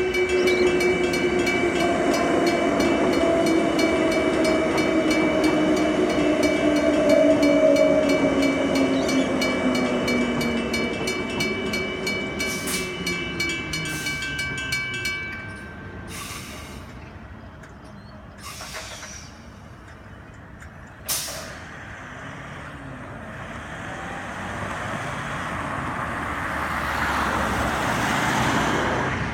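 Railway level-crossing warning bells ringing in a fast, even pulse while a Transperth electric train passes, its motor whine sliding down in pitch. The bells stop about halfway through, a few knocks follow with a sharp one a few seconds later, and road traffic starts up and grows louder near the end.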